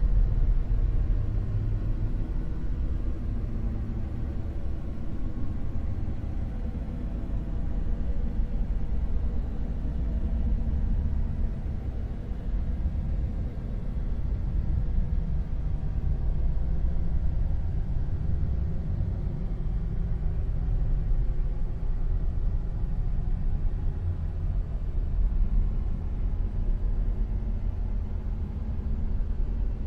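Dark noise: a steady, deep rumbling hiss weighted heavily toward the low end, swelling and easing slowly every several seconds like waves.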